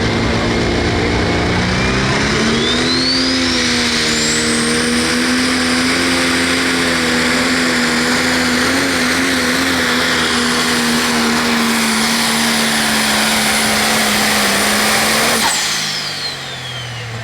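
Pro stock pulling tractor's turbocharged diesel engine run at full throttle, the engine note climbing over the first few seconds and then holding steady under load, with a high turbo whistle rising and holding. About fifteen seconds in the throttle is cut: the engine drops away and the turbo whistle winds down.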